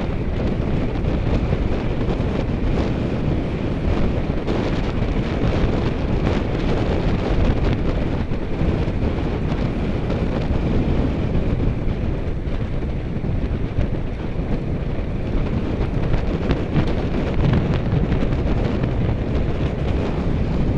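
Steady wind rushing over the microphone of a rider's camera on a moving bicycle, a dense low rumble with no breaks.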